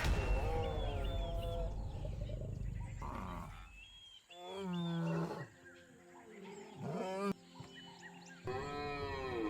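Lions growling and roaring in several separate drawn-out calls, over background music.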